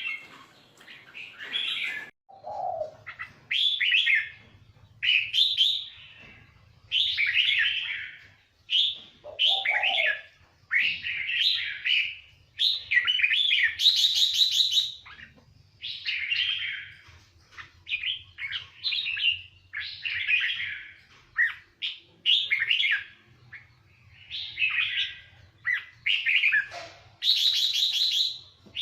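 Red-whiskered bulbul singing: a steady string of short, bright warbled phrases, one every second or two, with an occasional lower note.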